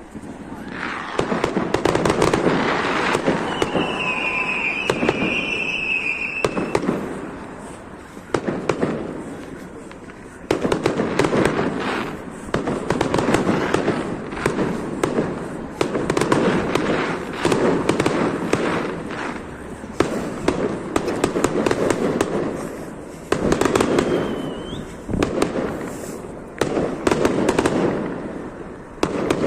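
Firecrackers and ground fireworks going off in long bursts of rapid crackling pops, several seconds each with brief lulls between. A warbling high-pitched whistle sounds a few seconds in.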